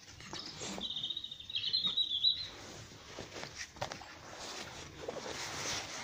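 A songbird singing a fast trill of high notes for about a second and a half, starting near the beginning. Later come scattered light clicks and a brief rustling near the end.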